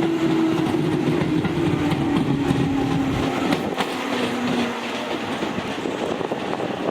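Tobu Railway electric train running on the rails with a steady rumble and a few wheel clacks over rail joints. A single whining tone slowly falls in pitch, the sound of the train slowing down.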